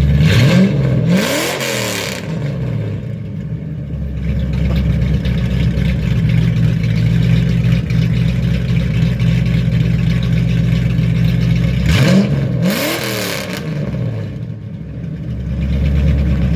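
1989 Ford Mustang GT's 5.0-litre V8, straight-piped with no mufflers through BBK headers and an off-road X-pipe, idling and revved twice. Each rev climbs quickly and falls back to idle, one at the start and one about twelve seconds in.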